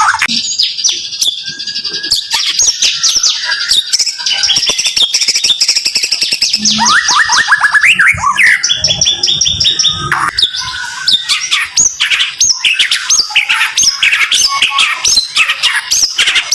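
White-rumped shama (murai batu) singing loud runs of fast, tightly repeated notes: the close rapid-fire 'tembakan' song prized by bird keepers.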